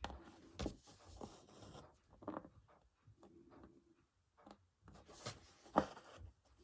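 Hand embroidery at close range: faint scratchy rustles as needle and thread are drawn through fabric and the cloth is handled, with a few light clicks, the sharpest one near the end.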